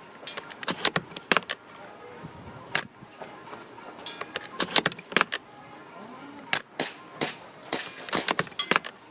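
Sharp clicks and snaps from a VSR-10 spring-powered airsoft bolt-action rifle being fired and its bolt worked: about a dozen in irregular clusters, the loudest a little over a second in and about seven seconds in.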